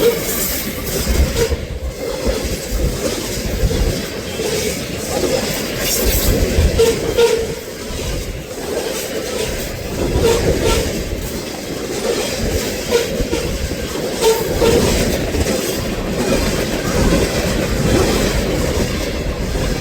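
A train rolling past: a continuous rumble with its wheels clacking irregularly over rail joints.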